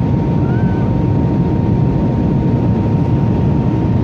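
Airliner cabin noise: a steady loud rumble of engines and airflow, with a thin steady whine above it.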